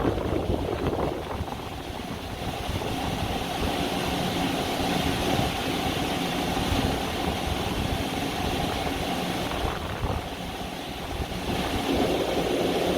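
Metra commuter train running with a steady mechanical hum, easing a little about ten seconds in and growing louder again near the end.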